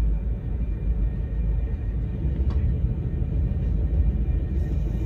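VIA Rail passenger train rolling along the track, a steady low rumble.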